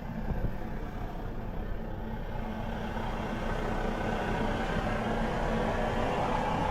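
Steady vehicle noise, growing a little louder toward the end.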